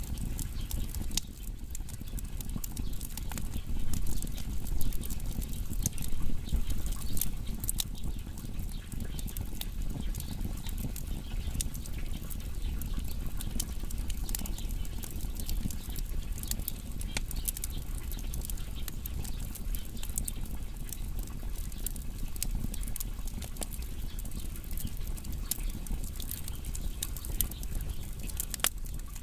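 Wood fire burning: a steady low rumble of flames with constant crackling and snapping of burning firewood, a few louder pops about four to seven seconds in.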